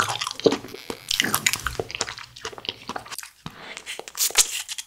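Close-up biting and chewing of a green jelly candy: a quick run of short, wet, crackly mouth sounds.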